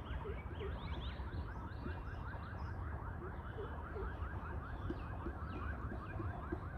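Birds chirping: a rapid, even run of short chirps, several a second, with scattered higher chirps over it and a steady low rumble underneath.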